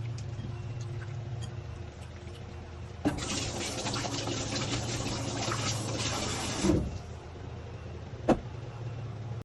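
Water running from a kitchen tap for about three and a half seconds, starting about three seconds in and ending with a knock, over a steady low hum; a sharp click follows about eight seconds in.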